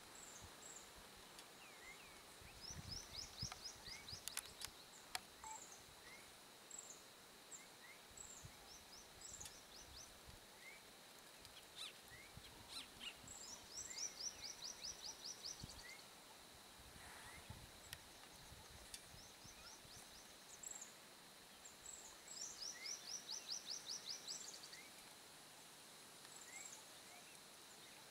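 Quiet wild birdsong: scattered short high chirps and three runs of rapid trilled notes, a few seconds in, around the middle and near the end, over a faint steady high tone.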